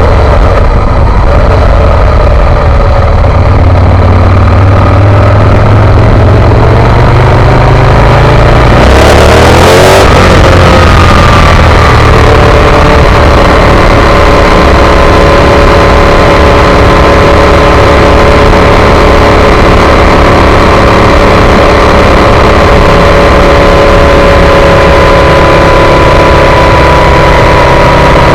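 Aprilia Tuono 1000 R's V-twin engine, loud, its note rising under acceleration over the first several seconds, then passing close by about ten seconds in. After that it settles into a steady note that falls slightly in pitch.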